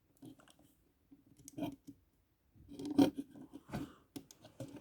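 Small clicks and scrapes of a die-cast metal and plastic toy jet being handled, its fold-out landing gear being worked, with a louder cluster of clicks about three seconds in.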